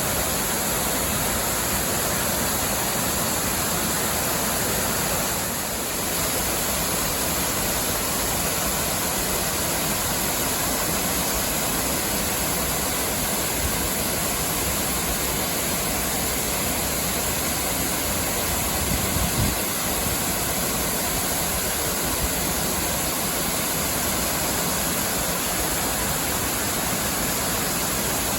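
Waterfall rushing in a steady roar of falling water, with a brief low bump about nineteen seconds in.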